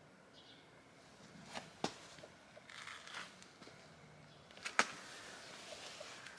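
Faint handling noises from working on car suspension parts: a few scattered clicks and knocks, the sharpest just before two seconds in and near five seconds, with some soft rustling between them.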